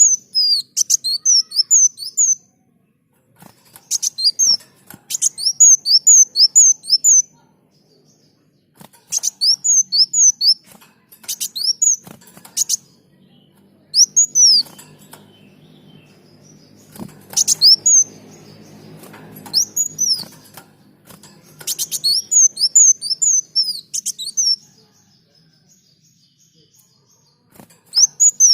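Kolibri daun (a sunbird) singing: bursts of rapid, repeated high chirps, several notes in quick succession, broken by short pauses. A faint low hum sits under the song in the middle.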